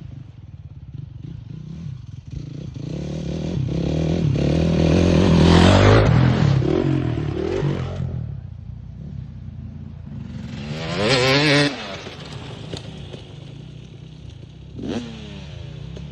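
Dirt bike engines running over a steady low idle, one swelling louder for a few seconds about four to seven seconds in, then sharp throttle blips about eleven seconds in and again near the end.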